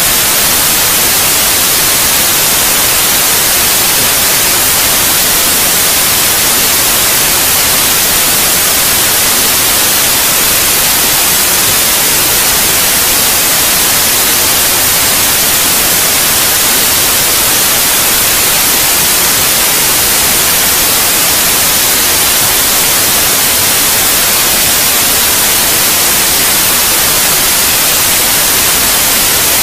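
Steady white noise: a constant, even hiss, strongest in the high pitches, with no change throughout.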